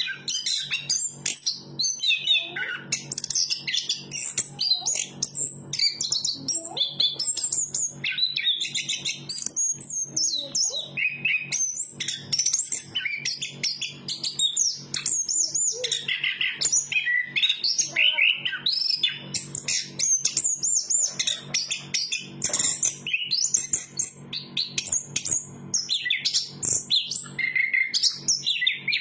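Chestnut-capped thrush (anis kembang) singing continuously: a rapid, varied run of high whistled and chattering phrases with hardly a pause, over a steady low hum.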